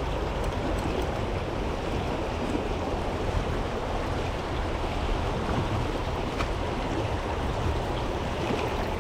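Trout stream flowing with a steady rush of water.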